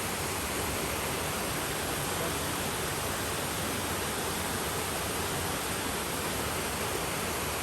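Waterfall's steady rush of falling water, an even noise without change.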